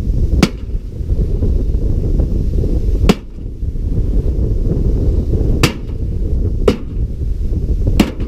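A microwave oven being struck hard five times at uneven intervals, each a sharp crack, over heavy wind rumbling on the microphone.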